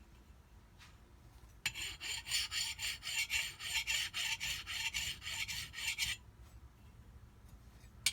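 A hand file rasping in rapid back-and-forth strokes across the edge of a jet-ski impeller blade for about four and a half seconds, starting a little over a second in, then stopping. The strokes are taking down burrs left on the blade by debris damage.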